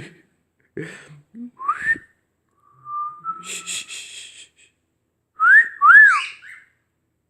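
Pet bird whistling. A rising whistle comes about two seconds in, then a short held note with some scratchy chatter, and then two loud arched whistles near the end.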